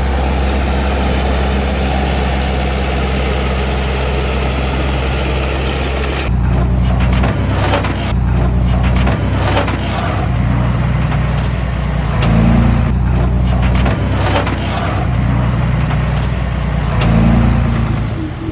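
Heavy diesel engine of a crawler bulldozer running steadily. About six seconds in the sound changes abruptly to the engine under work, with many irregular clanks and cracking knocks over it.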